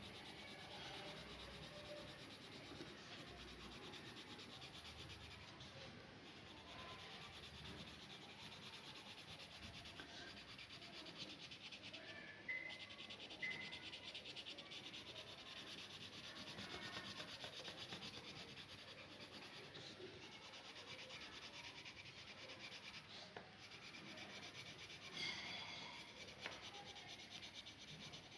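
Faint, steady scratching and rubbing of a drawing tool on paper as lines are drawn. Two short high chirps come a little before the middle.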